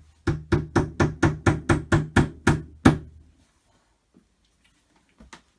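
A rapid run of about a dozen knocks, about four a second, stopping about three seconds in: wooden dowels being hammered into the holes of a flat-pack cupboard panel. One or two faint knocks follow near the end.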